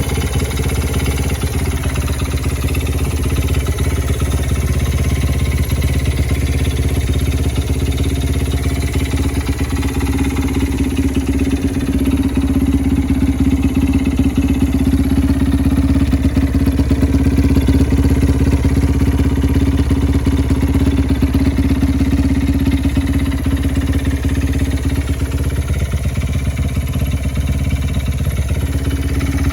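Honda NSR50 fitted with a 115 cc bored-out Honda Ape 100 four-stroke single-cylinder engine, running steadily at about idle. The engine speed sags and picks back up near the end.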